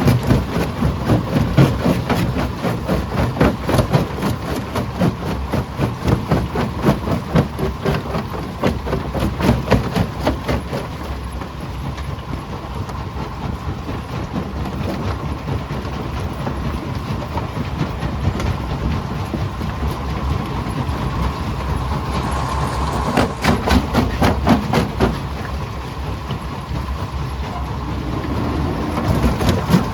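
Primary jaw crusher running and crushing rock: a steady machine din full of rapid cracking and knocking of stone. The knocking is dense for the first third, eases off, then comes thick again briefly past the middle and near the end.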